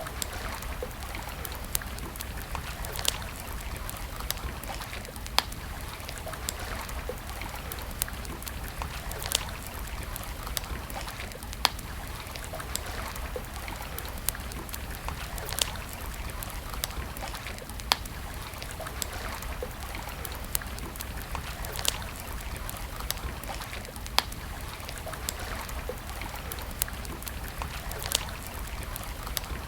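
Wood campfire crackling, with sharp pops every second or two over a steady rushing hiss.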